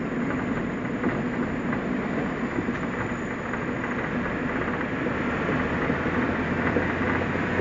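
New-model Suzuki Jimny driving down a winding mountain road: a steady rumble of engine and tyre noise.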